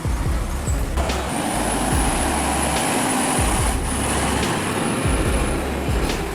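Heavy truck driving: steady engine and road rumble, with a couple of sharp clicks or knocks about a second in and near the middle.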